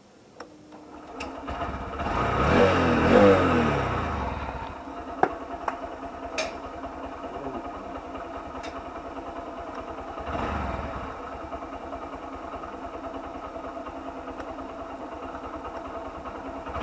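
Motorcycle engine started and revved, the revs sweeping up and down about two to four seconds in, then settling into a steady idle. The throttle is blipped briefly about ten seconds in, with a few sharp clicks along the way.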